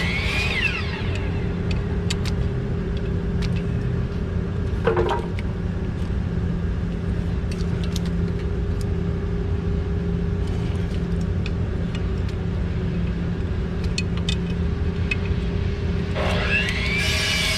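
Steady low mechanical rumble with a constant hum, like a motor or engine running, with a short falling whine about five seconds in, another glide near the end, and scattered light clicks.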